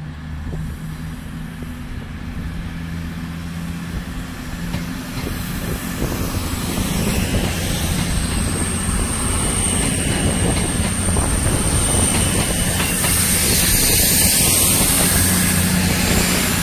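CrossCountry Voyager diesel multiple unit passing through a station: underfloor diesel engines running and wheels rolling on the rails, growing louder as it goes by. A thin, steady high-pitched whine runs through the middle of the pass.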